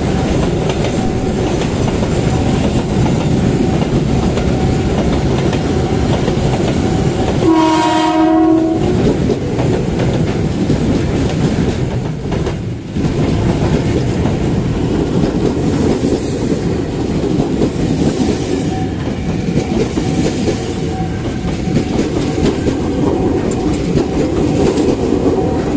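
Trains passing close by: the steady noise of steel wheels rolling on rail, first from a container freight train's wagons and then from a former Tokyo Metro 6000-series electric commuter train. About eight seconds in, a train horn sounds once for about a second.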